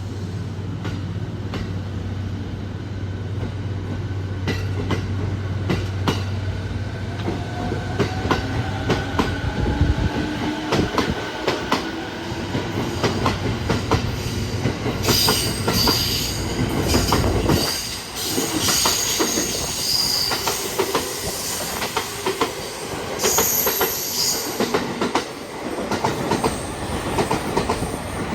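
JR East 217 series electric multiple unit pulling out: a low steady hum at first, then the inverter traction-motor whine rises in pitch as the train accelerates. Its wheels click over rail joints and points, with high-pitched wheel squeal through the middle part.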